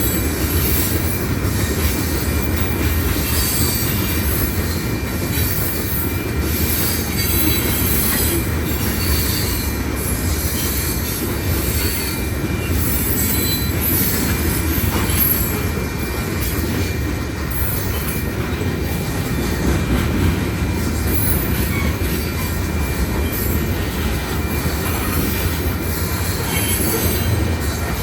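BNSF manifest freight train rolling past, a steady loud rumble of wheels on rail with crackling metallic noise and a faint thin high tone above it.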